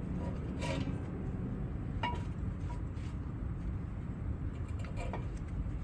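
A few light metallic clicks and clinks, four of them a second or so apart, as brake pads and their small clips are handled and fitted into the caliper bracket. A steady low rumble runs underneath.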